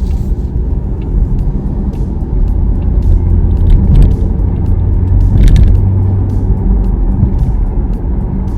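Steady low rumble of a car's engine and road noise heard from inside the moving car, with a few faint clicks.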